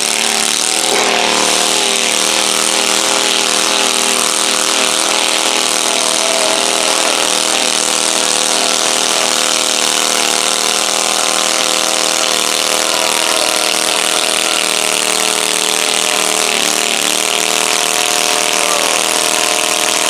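Pulling garden tractor's engine running at full throttle under load on a pull. Its pitch holds nearly steady with slight wavering throughout.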